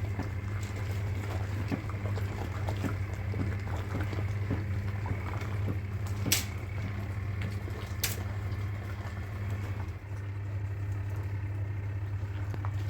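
Electric washing machine running, a steady motor hum under the churn of water and blankets. Two sharp knocks come about halfway through.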